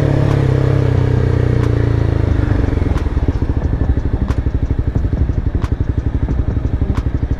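Motorcycle engine easing off, its pitch falling over the first two seconds, then settling into a fast, even pulsing near idle. A sharp tick sounds about every second and a quarter.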